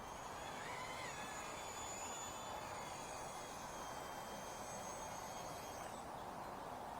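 Blade MSR-X micro RC helicopter's small electric motors and rotors whining, the pitch shifting briefly about a second in, then the whine stops about six seconds in over a steady hiss.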